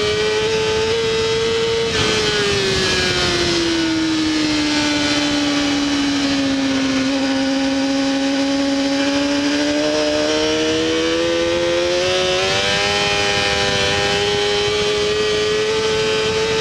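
Honda CBR600RR inline-four engine running hard at high revs, heard onboard with wind rush. The revs fall slowly over several seconds, then climb back, with a gear change about twelve seconds in, and hold high near the end.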